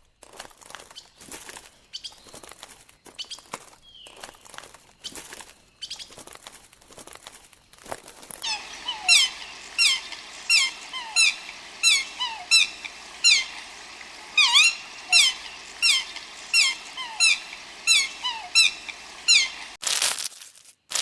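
Scattered rustling and tapping, then a bird giving a long run of short, sharply falling chirps, about two a second, which stops about a second before the end.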